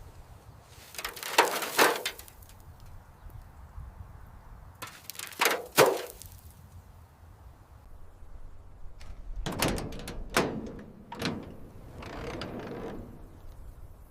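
Groups of sharp knocks and clatters, in four bursts a few seconds apart, the last one more of a scraping rattle.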